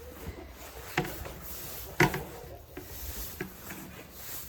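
Broom sweeping a stall floor, a soft scraping with two sharp knocks, one about a second in and another about two seconds in.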